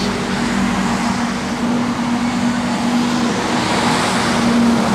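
Steady road traffic noise with a constant low engine hum underneath.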